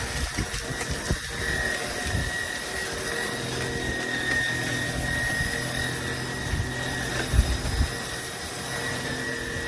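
Cordless stick vacuum cleaner running, a steady motor whine with a high tone, with scattered low bumps as it is moved.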